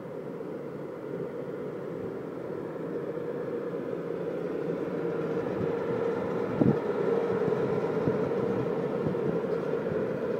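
A train running along the track: a steady rumble that slowly grows louder, with a few short knocks from the wheels and rails.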